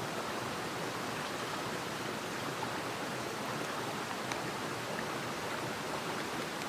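Steady rushing of a mountain headwater stream, with a few faint ticks over it.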